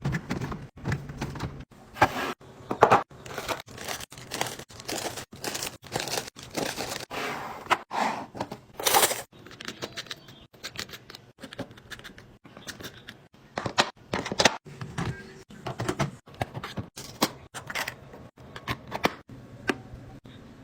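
Groceries being handled and packed into a fridge: a quick, irregular series of knocks and clicks as containers are set down, with plastic packaging crinkling.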